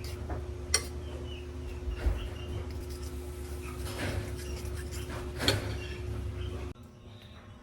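A few sharp clinks and knocks, like dishes and utensils being handled, over a steady low hum; the hum cuts off suddenly near the end.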